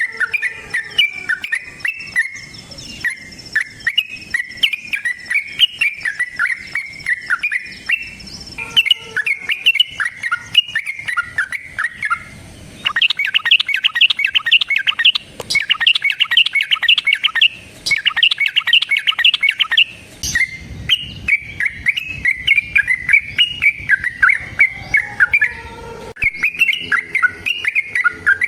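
Yellow-vented bulbul (trucukan) singing a long, loud chattering song of quick warbled notes. In the middle it breaks into a denser, faster run of notes lasting several seconds, the rapid-fire 'ropel' that keepers prize in a fighting-form bird.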